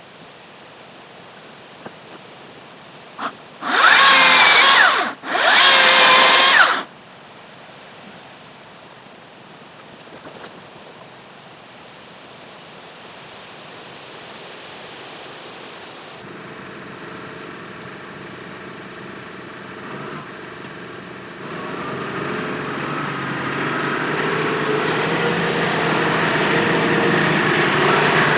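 Chainsaw revved hard twice in quick succession, each burst about a second and a half. Later an engine runs and grows steadily louder toward the end.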